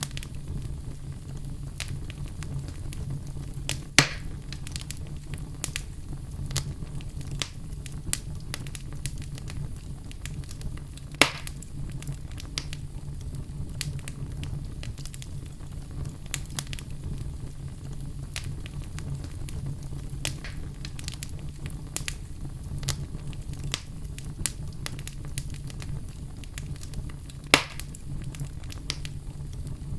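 Wood fire burning in a fireplace: a steady low rumble of the flames with frequent small crackles and three louder pops, at about 4, 11 and 27 seconds in.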